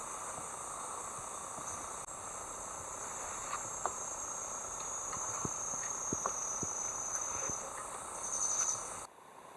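Insects chirring steadily in a thin, high-pitched band, with a few faint ticks scattered through it. The sound grows stronger near the end, then cuts off suddenly.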